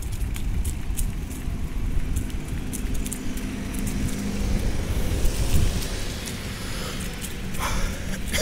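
Riding a bicycle: wind rumbling on the microphone, with scattered clicks and rattles from the bike.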